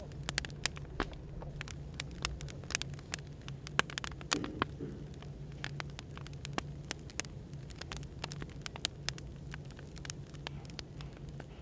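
Firewood crackling, with irregular sharp pops several times a second, over a steady low hum of cafe background noise.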